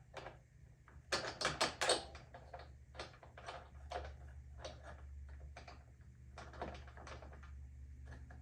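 Irregular clicks, taps and knocks of hard plastic ATV body panels being handled and pressed into place, with a quick run of louder knocks a little after a second in.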